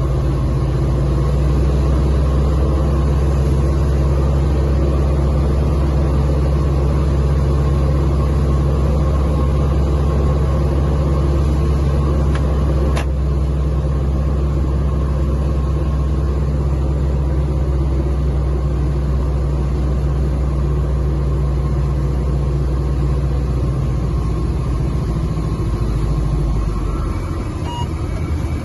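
Cessna 172 RG's four-cylinder piston engine and propeller droning steadily through a landing approach. Near the end, the low drone shifts and dips slightly in level.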